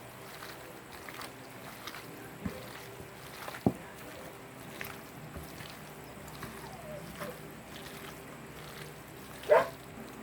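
Marinating chicken being mixed in a bowl with ginger-garlic paste: faint handling sounds over a steady low hum, with two light knocks about two and a half and three and a half seconds in, and a short louder sound near the end.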